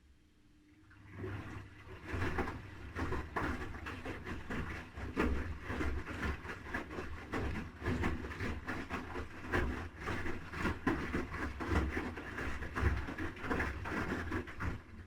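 Haier HW80-B14979 front-loading washing machine drum turning one way for about fourteen seconds, with wet laundry tumbling and sloshing in an irregular run of soft knocks over a low motor rumble, then stopping: one turn of the wash-and-rinse tumble cycle.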